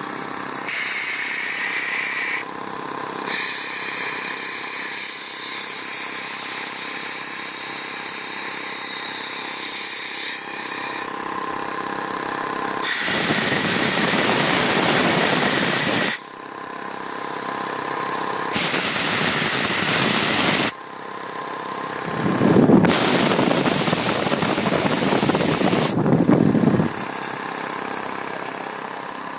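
Vintage 1942 Aerograph type 220 air compressor running with a steady hum, interrupted by repeated spells of loud hissing air that start and stop abruptly, lasting from about two to several seconds each, the longest near the middle and toward the end.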